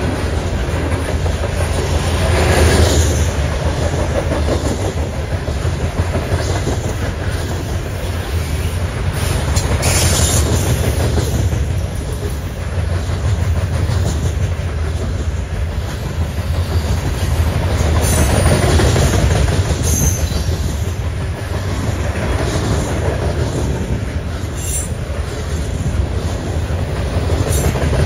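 Hopper cars of a loaded Norfolk Southern coal train passing close at speed: a steady heavy rumble of steel wheels on rail with clattering over the rail joints. It swells louder a few times as groups of wheels go by.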